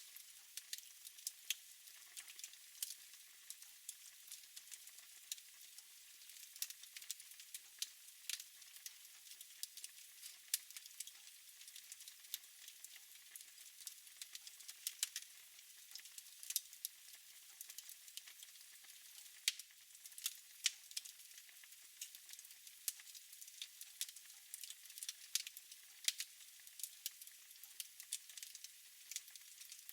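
Fire burning in a fireplace, crackling with many irregular sharp pops over a soft steady hiss.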